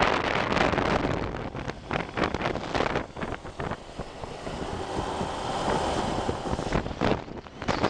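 Wind buffeting the microphone of a moving motorbike: a loud rushing noise with irregular gusty thumps.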